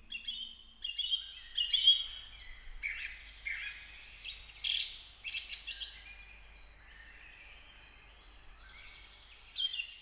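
Songbirds chirping and trilling in quick, short high calls, dense for the first several seconds, then thinning out, with a couple more calls near the end.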